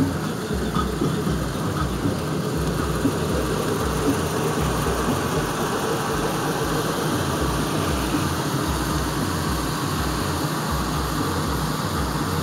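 Lincoln Navigator stretch limousine's V8 engine idling steadily, with a low pulsing throb underneath.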